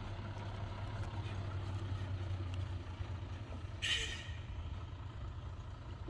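Heavy diesel engine running steadily with a low hum, and a short hiss about four seconds in.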